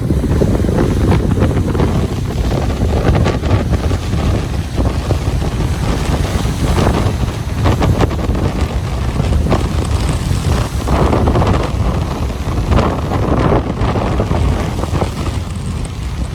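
Ocean waves washing onto a beach under a steady low rumble of wind buffeting the microphone, with frequent crackling gusts.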